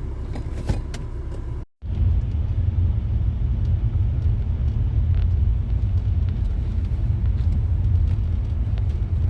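Car driving along a road: a steady, loud low rumble of engine and road noise. It breaks off for a moment about two seconds in and then carries on steady.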